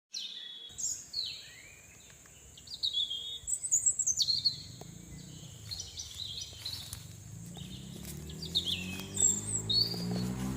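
Birds chirping and calling in short quick notes, joined from about halfway through by a low droning hum that slowly rises in pitch and grows louder.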